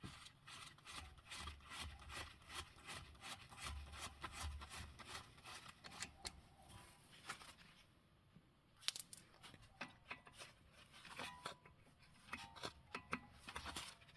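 Faint, irregular clicks and short scrapes of metal hand tools working on a car's front brake.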